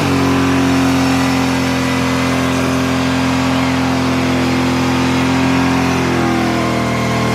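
Car engine held at high revs during a tyre-smoking burnout, running at a steady pitch that dips slightly near the end.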